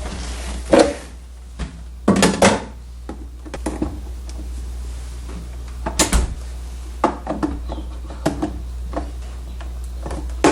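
Irregular knocks and clatters of a refrigerator's doors, drawers or shelves being handled, over a steady low hum. The loudest knocks come about a second in, around two seconds in and about six seconds in.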